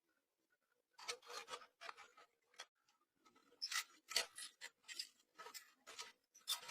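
A series of short, irregular scraping or rubbing strokes, starting about a second in.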